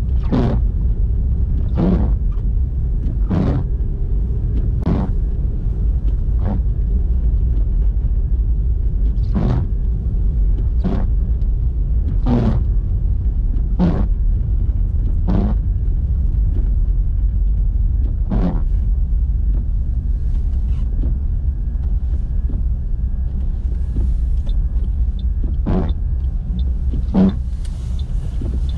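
Car cabin road and engine rumble while driving through a snowstorm. Windscreen wipers sweep about every one and a half seconds, stop for several seconds, then sweep twice more near the end, where light ticking is also heard.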